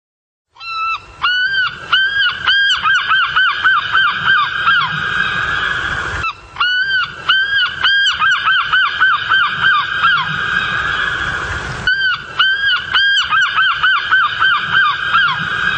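Loud honking bird calls over a steady wash of noise: a few long calls, then a quickening run of shorter calls that trails off. The sequence repeats the same way about every five and a half seconds, like a looped recording.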